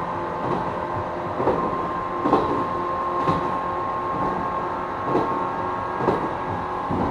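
Running sound inside a JR 455-series EMU motor car: the MT54 traction motors and gearing hum at a steady pitch over the rumble of the wheels. The wheels click over rail joints several times, roughly a second apart.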